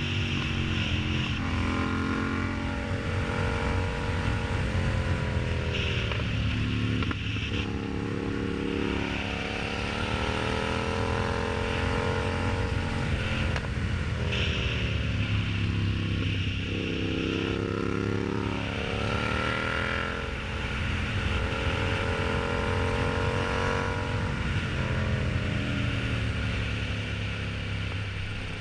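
Yamaha MT-07's parallel-twin engine and exhaust under way. It pulls up in pitch and falls back several times as the bike accelerates and changes gear.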